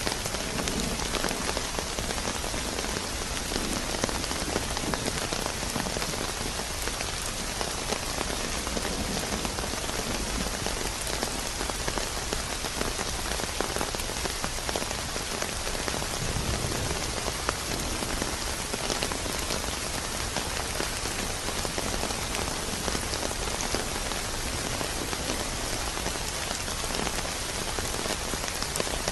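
Steady rain falling on a surface: an even, dense patter of drops with scattered sharper drop taps.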